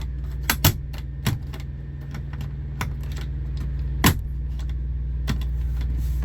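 Truck auxiliary power unit (APU) running with a steady low hum, under about half a dozen sharp clicks and knocks, the loudest about four seconds in.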